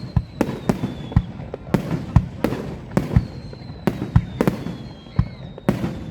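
A fireworks display going off in a rapid, irregular barrage of sharp bangs, about two or three a second, with faint thin whistles sliding down in pitch between them.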